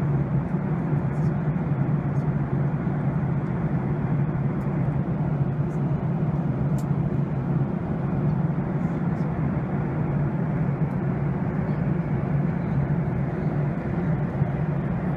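Steady roar of a jet airliner's engines and airflow heard from inside the passenger cabin in flight, an even rumble with a low hum that does not change.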